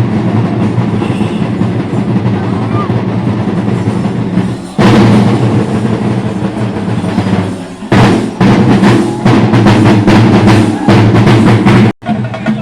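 Temple festival percussion: an ensemble of chenda drums beaten fast and loud. The drumming swells sharply about five seconds in, dips briefly, then returns with rapid strokes. It cuts off abruptly near the end.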